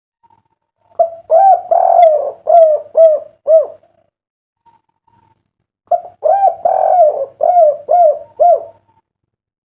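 Spotted dove (derkuku) singing its 'kuk 3' coo song: two phrases of about six rounded coo notes each, with a pause of about two seconds between them.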